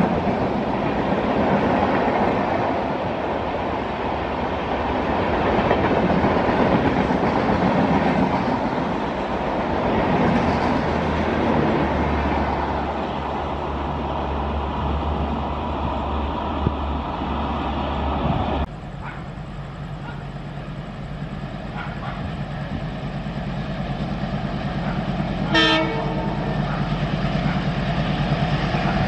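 Coaches of an express train rushing past, with a steady roar of wheels on rail that slowly fades as the train moves away. After a sudden cut, a diesel locomotive approaches with a steady low engine hum and gives one short horn blast about two-thirds of the way through.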